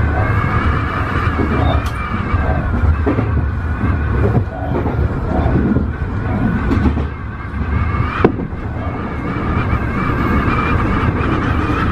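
Tobu 50090 series electric train running, heard from the front car: a steady low rumble under a steady whine, with scattered knocks and one sharp click about eight seconds in.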